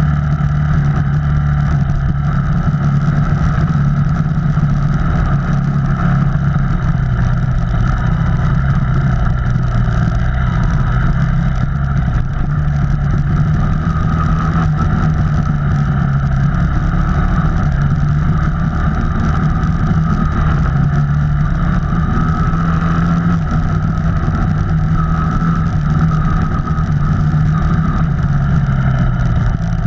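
Off-road vehicle engine running steadily while travelling along a trail, its pitch drifting slightly up and down with the throttle.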